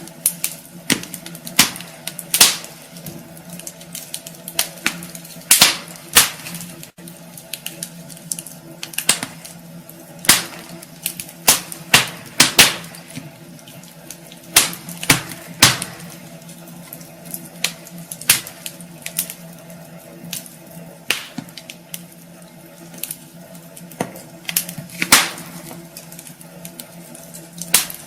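Wood fire burning in a fireplace, crackling with irregular sharp pops, several much louder than the rest, over a faint steady hum.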